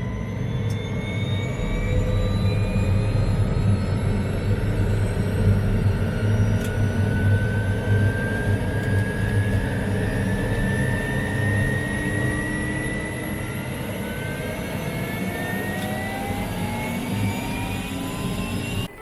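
Helicopter turbine and rotor running: a steady low rotor beat under a turbine whine that climbs slowly in pitch, as the engine spools up.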